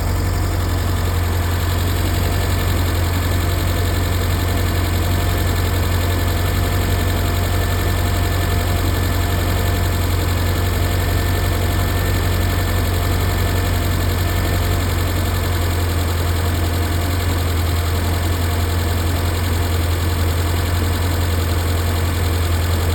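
Volvo P1800's inline four-cylinder engine idling steadily on a cold start, the choke partly released but still on and the engine not yet warm.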